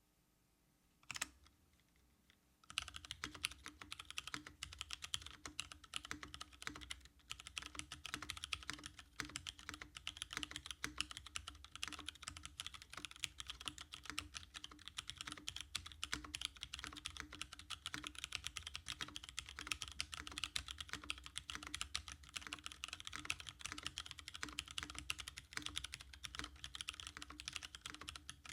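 Typing on a tenkeyless mechanical keyboard with unlubricated Cherry MX2A Brown tactile switches, a fast unbroken run of keystrokes that starts about three seconds in. A single click comes about a second in, before the typing begins.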